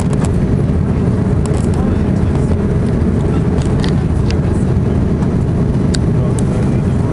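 Steady low rumble of the Airbus A340-600's four Rolls-Royce Trent 556 engines and the airflow, heard inside the cabin as the airliner climbs after takeoff. A few faint clicks come through on top.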